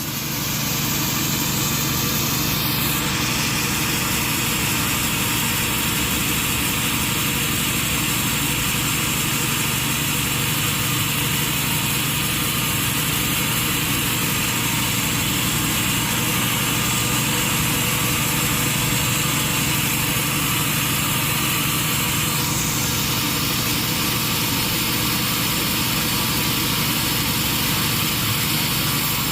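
Sawmill machinery running steadily, an engine-like drone with a high whine in it. The whine drops in pitch a few seconds in and climbs back some twenty seconds later.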